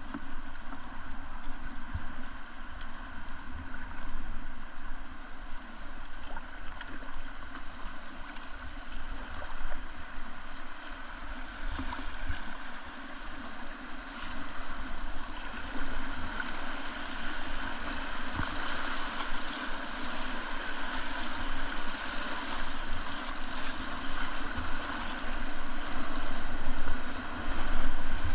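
Whitewater river rushing steadily around a kayak, growing louder about halfway through as the water gets rougher.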